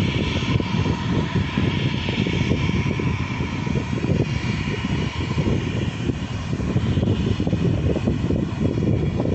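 Jet airliner flying low overhead: a loud, steady engine noise with a thin whine held above it.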